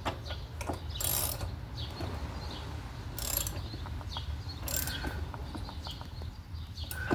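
Ratchet wrench clicking in three short bursts as a new spark plug is run into the cylinder head of a PowerSmart 170cc lawn mower engine.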